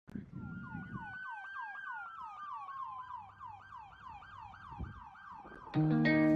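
Emergency vehicle sirens: one in a fast yelp of about three sweeps a second, another in a slow wail that rises and then falls. Guitar music comes in near the end.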